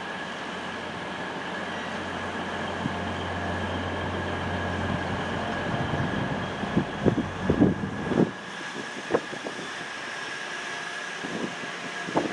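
Diesel train at the station platform, running with a steady low hum and a steady high tone. A burst of loud clattering knocks comes about seven to eight seconds in, after which the low hum drops away and a few lighter knocks follow near the end.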